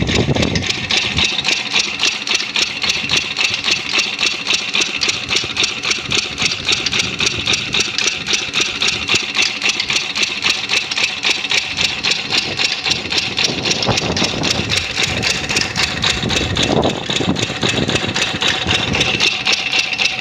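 An engine that has just been started, idling steadily with an even, rapid pulsing beat.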